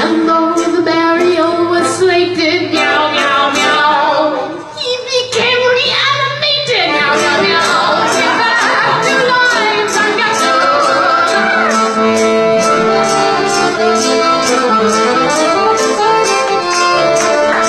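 Accordion music with a woman singing, over an even beat of taps, with a brief drop in level about four to five seconds in.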